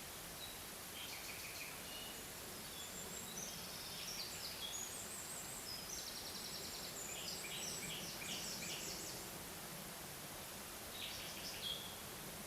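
A songbird singing over a steady background hiss: a long run of quick, high chirping phrases starting about a second in, then a short phrase near the end.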